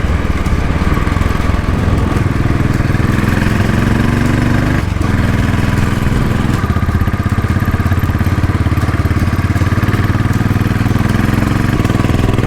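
Royal Enfield Bullet motorcycle's single-cylinder engine running under way on a ride. Its pitch climbs over the first few seconds, breaks off briefly about five seconds in, then holds steady.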